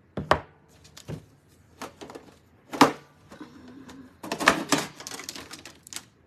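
Knocks and clatter of small craft supplies being handled and set down on a tabletop. There is a sharp knock about a third of a second in, another near three seconds, and a quick run of clicks and rattles around four and a half seconds.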